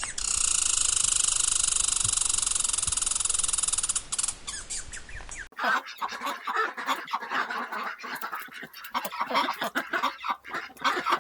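A steady, fast-pulsed buzzing trill for about four seconds that fades out. After an abrupt cut, a flock of birds calls loudly over one another in short, overlapping calls.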